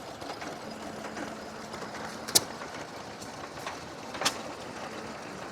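Vintage hit-and-miss stationary engine running, with a sharp exhaust bang from a firing stroke twice, about two seconds apart, over a steady low hum.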